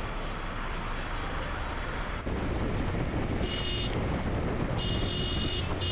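Motorcycle under way: engine running with road and traffic noise and wind on the helmet microphone, a little louder from about two seconds in.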